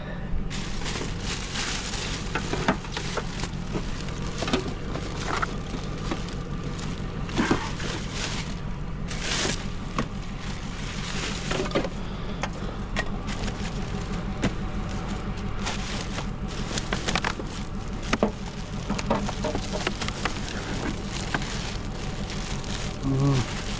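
Scrap items being handled and sorted by hand: scattered irregular clanks, knocks and rattles over a steady low hum.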